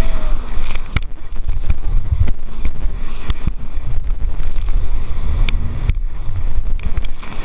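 Wind buffeting the microphone on a moving jet ski, with water slapping and knocking in short sharp hits over a heavy rumble.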